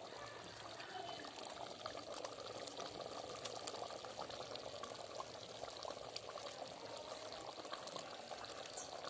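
Marinated chicken cooking in hot oil in a clay handi pot: a steady sizzle with many small crackling pops.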